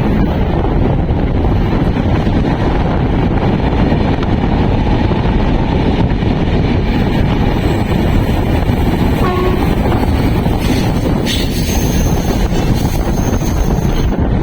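Passenger train running, a loud steady rumble mixed with wind buffeting the microphone, with a thin high squeal over the top in the last few seconds.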